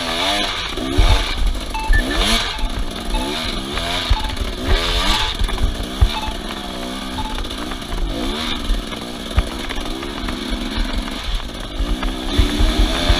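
Off-road vehicle engine revving up and down over and over, its pitch rising and falling about once a second, with low thuds throughout.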